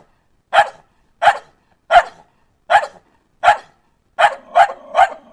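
Dog barking: single short barks about every three-quarters of a second, then three in quicker succession near the end.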